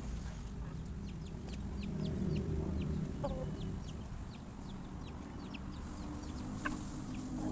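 A flock of chickens clucking in a low, steady murmur while feeding, with many short, high, falling cheeps scattered through it.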